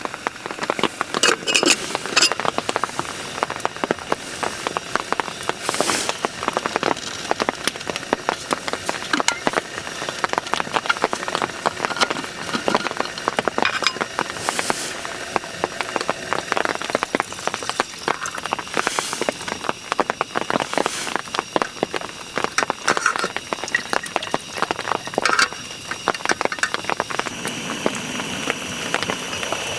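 Rain falling, with a dense, irregular scatter of close drop impacts.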